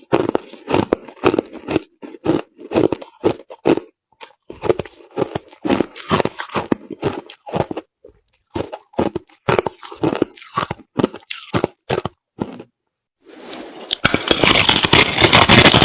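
Crushed ice being bitten and chewed right at the microphone: rapid, irregular crunches. They stop briefly about 13 seconds in, then resume louder and denser near the end.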